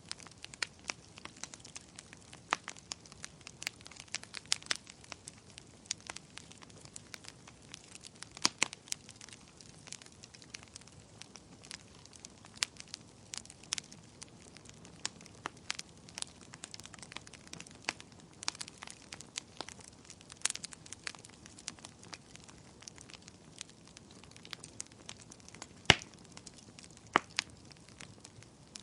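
Wood campfire crackling: irregular snaps and pops over a low hiss, with one louder pop near the end.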